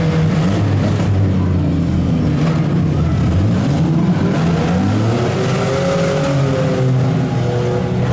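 Several demolition derby vans, trucks and SUVs running at once, their engines revving up and falling back, with pitch rising and falling as they drive and shove against each other.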